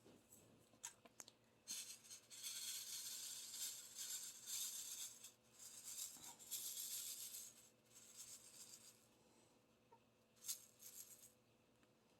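Faint rattling of small resin diamond-painting drills being shaken in a plastic tray, in two stretches, with a few light clicks later on.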